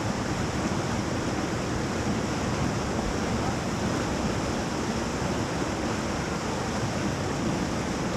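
River rapid rushing steadily: continuous whitewater noise.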